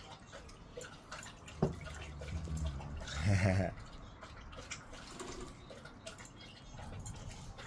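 Quaker parrot bathing in a shallow dish of water: scattered small splashes and drips, with one sharper splash about a second and a half in and a brief voice-like call a little after three seconds.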